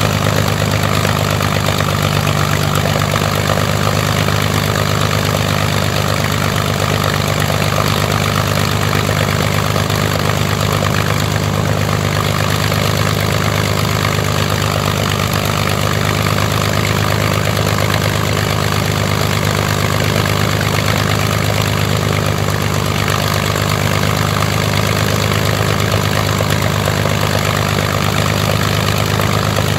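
Rolls-Royce Merlin Mk500 V12 aero engine running at a steady speed on a ground test run, its propeller in fine pitch.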